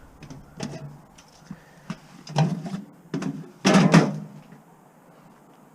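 Pieces of scrap metal being handled and set down: a few separate knocks and clunks, the loudest two close together about four seconds in.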